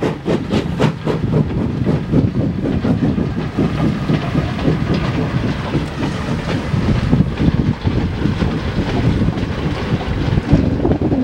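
Mixed passenger and freight train rolling past. The steam locomotive's exhaust chuffs, about four a second, fade out in the first second. Then comes the steady rumble and clatter of carriage and goods-wagon wheels on the rails.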